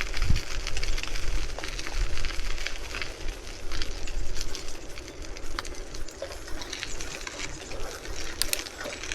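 Bicycle riding noise picked up by the camera: low wind rumble on the microphone, strong for about the first second and then easing, over a steady hiss with many small clicks and rattles from the bike on the road.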